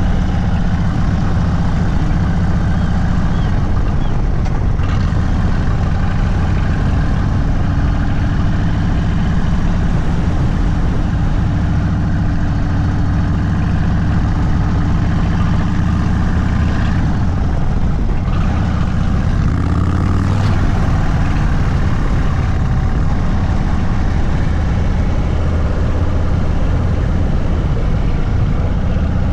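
Indian Sport Chief's Thunderstroke 116 V-twin running steadily through an aftermarket Sawicki Speed exhaust, a loud low engine note that shifts briefly around two-thirds of the way in.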